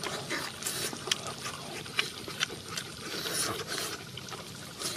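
Close-up eating sounds of two people chewing roast chicken with their mouths open: wet, irregular clicks and lip smacks.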